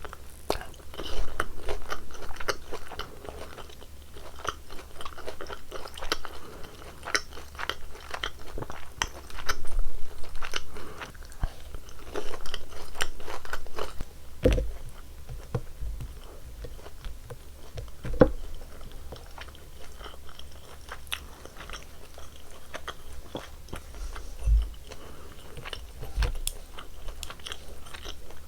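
Close-miked biting and chewing of crispy fried glutinous-rice-batter sweet and sour pork, with irregular crunches, the loudest bouts a few seconds apart, and a few soft low thuds.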